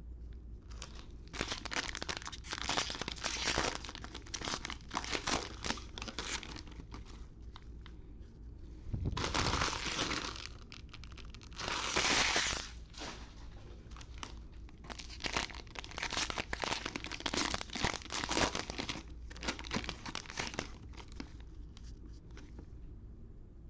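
Foil trading-card pack wrappers being torn open and crinkled, in many quick crackles, with two longer, louder stretches about nine and twelve seconds in.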